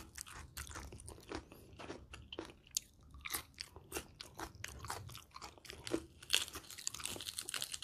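A person chewing and crunching a mouthful of spicy raw and cooked shrimp salad close to the microphone, with many sharp crisp crunches. Near the end a crisp lettuce leaf is torn, giving a dense run of crackling.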